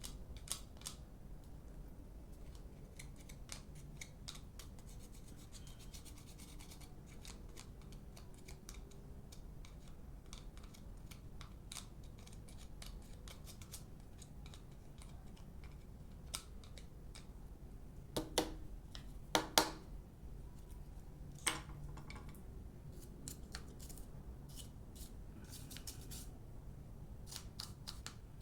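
Scattered light clicks, snips and scraping of hand-tool work on an opened hair dryer's parts, with a few louder sharp clicks about two thirds of the way through.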